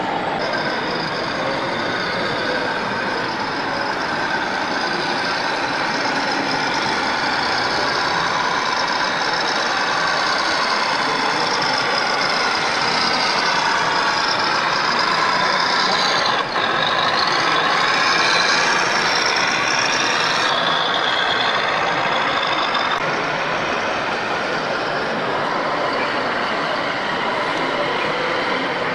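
Radio-controlled model trucks running on a course: whines from their motors and gears rising and falling in pitch over a steady, dense background din, with a brief dip a little over halfway through.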